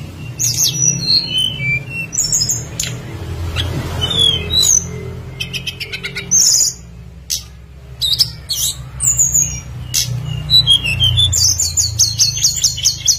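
Tledekan gunung songbird calling busily: quick high chirps, rapid trills and short falling whistles, with brief pauses, over a steady low hum.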